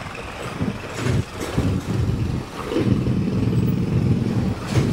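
Motorcycle engine running while riding along a street, a rough low rumble whose revs pick up about a second in and again near three seconds.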